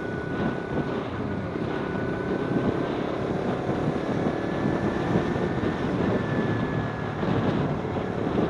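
Kawasaki Z250 parallel-twin engine running steadily at cruising speed, with wind noise on the microphone.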